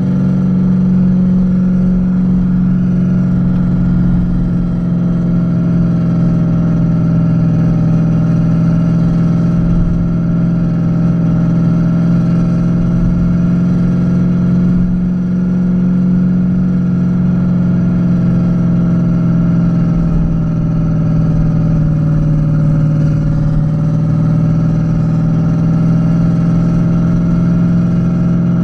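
Renault Kwid 0.8's three-cylinder engine running at steady revs while driving, a constant drone whose pitch dips slightly about two-thirds of the way through.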